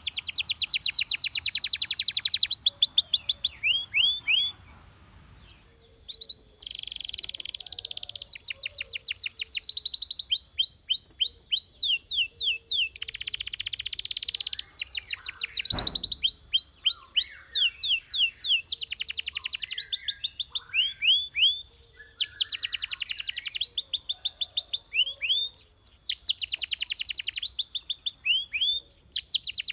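A canary singing: fast trills of repeated upswept notes in phrases of a second or two, broken by a short pause about four seconds in.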